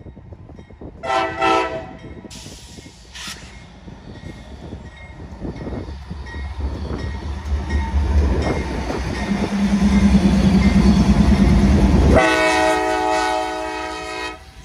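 Diesel freight locomotives passing close by: a short horn toot about a second in, then the engines' low rumble swelling as the units go past, and a long horn blast from about twelve seconds in that stops shortly before the end.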